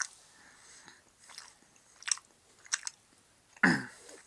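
A person chewing and biting a piece of chocolate, with a few sharp wet mouth clicks. Near the end comes a brief louder sound falling in pitch.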